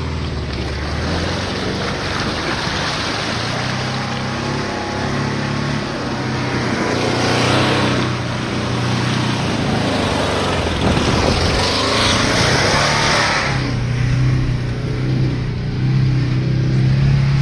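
ZAZ-968M's rear-mounted air-cooled V4 engine working hard as the car ploughs through deep mud, its pitch rising and falling. Muddy water splashes against the car twice, briefly about seven seconds in and longer from about eleven to thirteen seconds.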